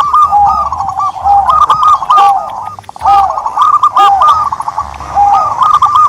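Turtledove cooing: phrases of quick, short, arched coos, each phrase ending on a lower, longer note, repeating every second or so.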